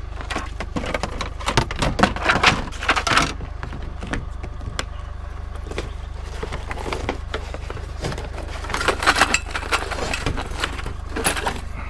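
A car driving, with a steady low engine and road rumble and bursts of rattling and clicking, twice about two seconds long, once a little shorter near the end.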